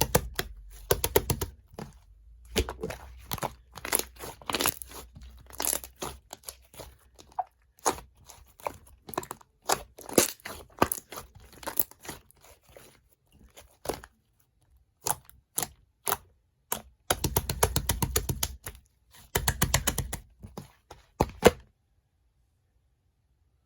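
Clay-mixed slime being squeezed, stretched and pressed by hand: irregular runs of crackling, popping clicks, denser in two stretches near the end, then stopping.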